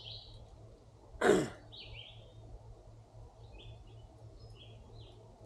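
Small birds chirping on and off, with one loud, short sound that falls in pitch a little over a second in.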